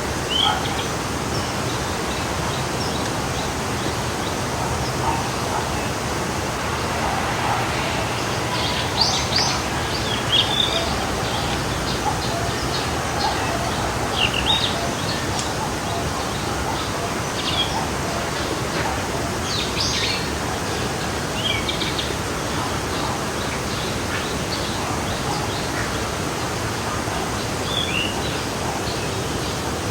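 Steady rushing of a forest stream with birds chirping and singing over it in short, scattered calls.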